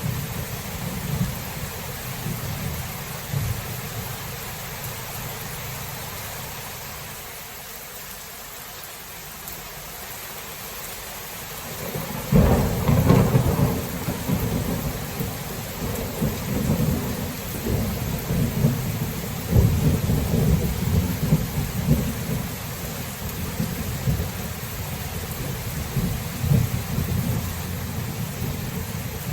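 Thunderstorm: steady rain under rolling thunder. A rumble dies away over the first few seconds, then a loud thunderclap breaks about twelve seconds in and is followed by long, repeated rolls of low rumbling.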